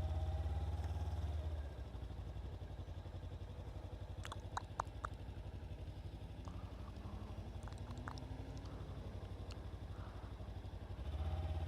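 Kawasaki Ninja 300's parallel-twin engine idling, a little louder for the first second or two, then steady. A few light clicks and rattles come around the middle.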